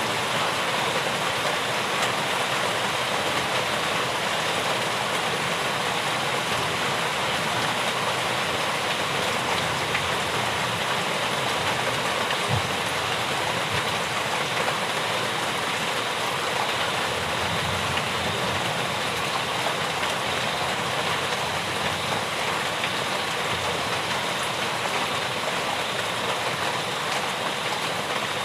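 Steady rainfall: an even, unbroken hiss of falling rain that holds level throughout.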